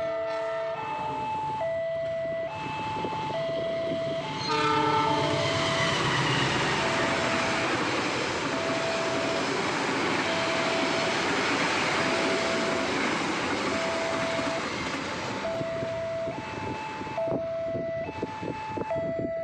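A railway level-crossing warning alarm sounds two alternating tones over and over. About four and a half seconds in, a train horn blows briefly, and the train passes with a loud rolling rush of wheels on rail. Near the end, as the rush fades, the wheels click over the rail joints.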